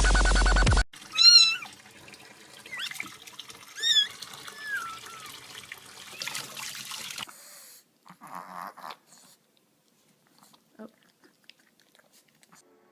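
A cat meowing several times over a faint hiss like running water, with the meows coming in the first half.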